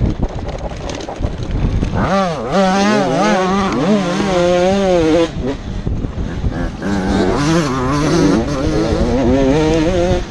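85cc two-stroke motocross bike engine revving hard, its pitch repeatedly rising and falling as the rider works the throttle and shifts, with a brief drop in revs about five seconds in, over steady rushing noise.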